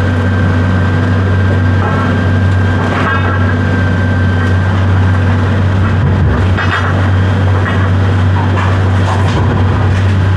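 An engine running steadily with a constant low drone, with a few brief light rattles or clinks over it.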